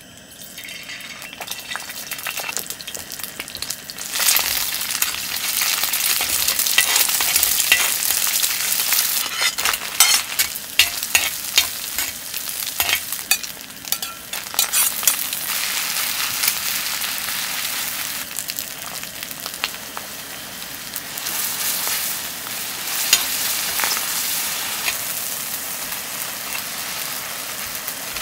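Pad thai noodles sizzling as they are stir-fried in a hot pan, with many sharp clicks and scrapes of the utensil. The sizzle swells over the first few seconds and then stays loud.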